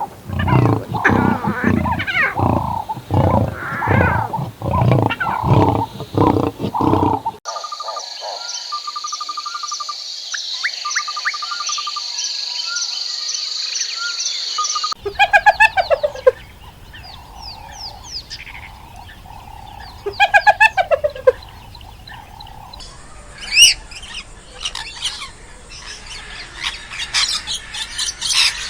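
A run of animal sounds: first a series of loud, evenly repeated calls, then a steady high shrill with a fast pulse and short trills, then bird chirps with quick high whistles.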